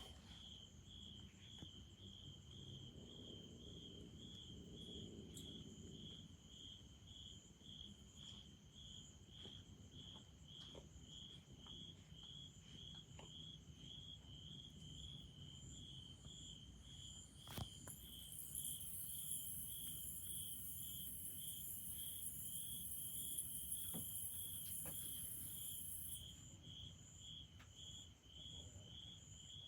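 Cricket chirping steadily, about two short high chirps a second. A faint high hiss joins it for several seconds in the second half.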